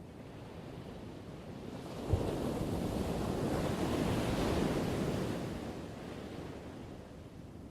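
Ocean wave breaking on the shore: the surf rush swells about two seconds in with a sudden thump, peaks, then washes back out and fades before the end. Wind rumble on the microphone runs underneath.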